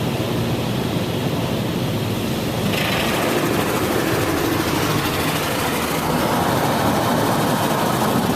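Touch-free automatic car wash running, heard from inside the car: a steady hum of machinery with high-pressure water spray hitting the body. The spray grows louder and hissier about three seconds in.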